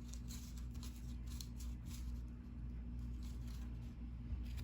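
1990-91 NBA Hoops cardboard trading cards being handled and flipped through, giving soft, short papery swishes every half second or so. A low steady hum runs underneath.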